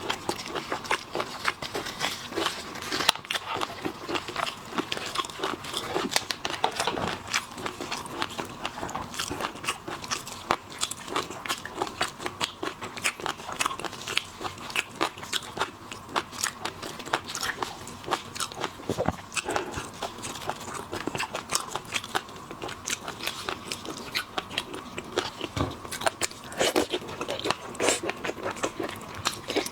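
Close-miked eating of seafood: steady biting and chewing with many small crackling clicks throughout.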